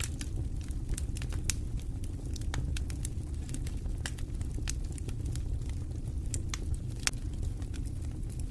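Wood fire in a fireplace crackling, with irregular sharp pops and snaps over a steady low rumble of the burning logs.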